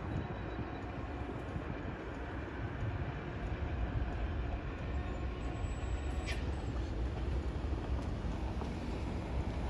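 A train rolling along the track: a steady low rumble of wheels on rail, with a single sharp click about six seconds in.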